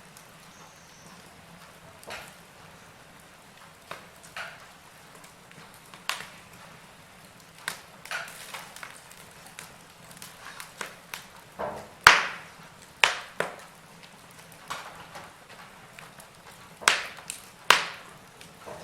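Wood fire of burning logs crackling: a low steady hiss with irregular sharp pops and snaps, the loudest pops about two-thirds of the way through and near the end.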